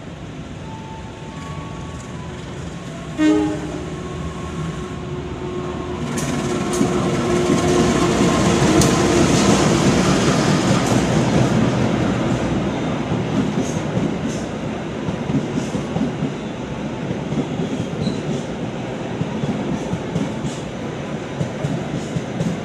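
CC 201 (GE U18C) diesel-electric locomotive hauling a passenger train at speed: a short horn blast about three seconds in, then the locomotive and coaches rush past with wheels clattering over the rail joints, the rumble easing as the last coaches go by.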